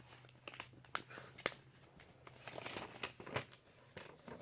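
Sheet of paper being folded and creased by hand: scattered crinkles and sharp ticks, with a longer rustle a little past the middle.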